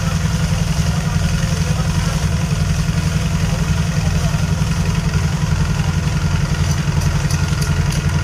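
Reciprocating air compressor running steadily, with a fast, even pulsing beat.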